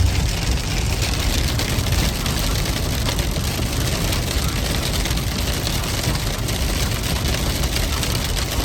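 Steady road and engine noise inside the cabin of a moving Chevrolet Trailblazer SUV, an even rush at a constant level.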